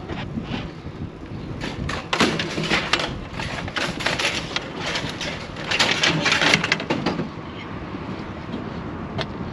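Hard objects clattering and knocking as they are handled, in clusters of quick clicks and knocks over a low steady rumble.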